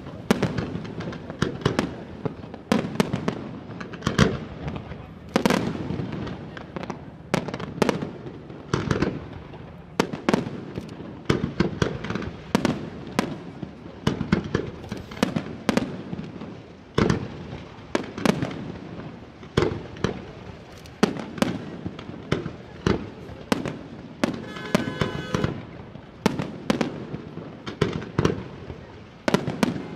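Professional aerial fireworks display: a continuous run of sharp shell bursts and launch reports, about one or two bangs a second, each followed by an echoing rumble.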